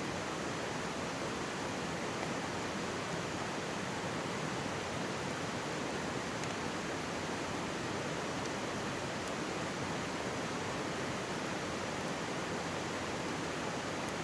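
Mountain stream babbling steadily, with a few faint, sharp crackles from a wood campfire.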